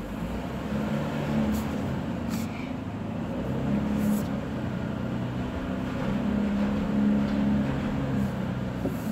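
Porsche engine running at low speed as the car is driven, its low hum shifting slightly up and down in pitch, with a few brief hisses in the first half.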